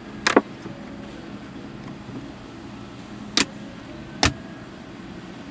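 Car interior storage lids and latches clicking: three sharp clicks, one just after the start and two between three and four and a half seconds in, over a low steady hum.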